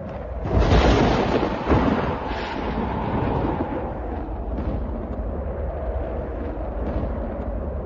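Thunder: a loud clap breaks about half a second in, with a second sharper crack just under two seconds in, then a deep rolling rumble that carries on.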